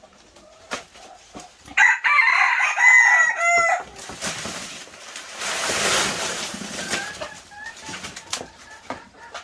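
A rooster crows once, a pitched call of about two seconds starting about two seconds in. This is followed by a few seconds of rustling noise, with scattered clicks and knocks.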